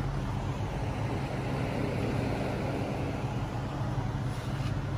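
Car running with a steady, even low rumble.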